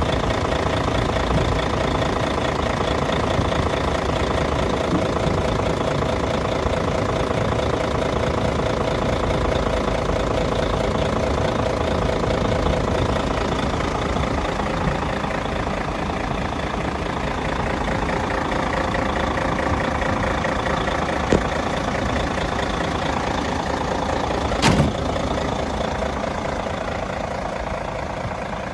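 Mercedes-Benz Actros 2631 truck's diesel engine idling steadily. Two brief clicks come late on, the second louder.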